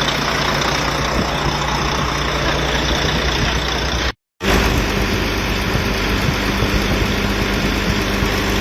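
Volvo D13 inline-six diesel engine idling steadily, running smoothly with the misfire cured after the faulty injector was dealt with. The sound drops out completely for a moment about halfway through.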